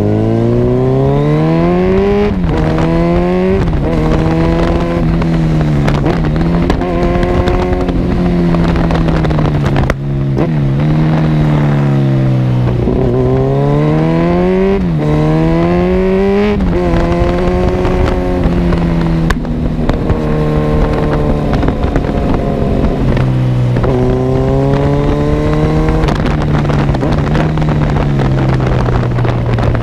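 Kawasaki Z1000 inline-four engine through an Arrow full exhaust system, revving up and dropping back over and over as the bike accelerates through gear changes and rolls off. There are a couple of sharp cracks, about ten and nineteen seconds in, typical of exhaust backfire pops.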